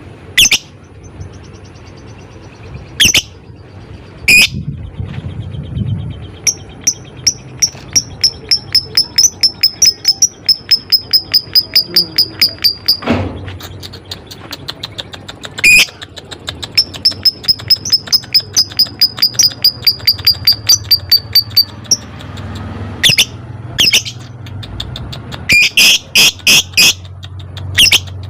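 Lovebirds calling: sharp, shrill squawks scattered throughout, and twice a long run of fast, evenly spaced high chirps, about five a second, lasting several seconds each. This is the ticking, chattering song (ngetik/ngekek) that lovebird keepers play to bait other birds into singing.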